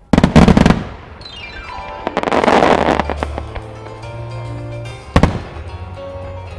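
Aerial fireworks bursting: a sudden loud volley of bangs, a falling whistling tone, a stretch of crackling and a single sharp bang about five seconds in, over show music with a steady bass.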